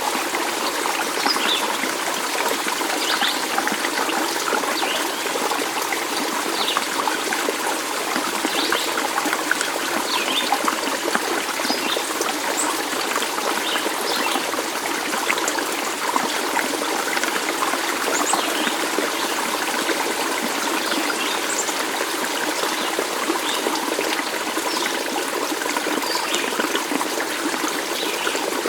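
Stream of water running steadily over stones, a continuous trickling rush, with short high chirps here and there.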